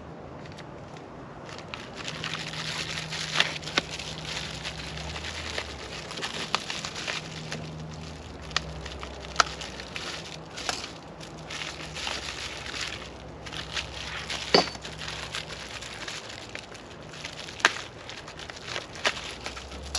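Plastic packaging crinkling and rustling as parts are unwrapped, with scattered sharp clicks and taps.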